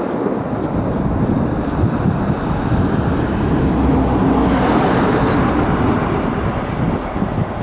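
Airbus A330-343's Rolls-Royce Trent 700 turbofan engines, a loud steady rumble with a faint high whine that comes in around the middle and fades again.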